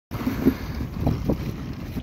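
Wind buffeting the microphone, a steady low rumble, with a few short louder sounds over it about half a second and a second in.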